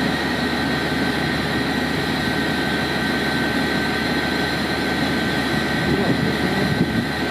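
Engine of an ENR-1000 snow-clearing track maintenance vehicle running steadily, with a steady high whine over the engine noise.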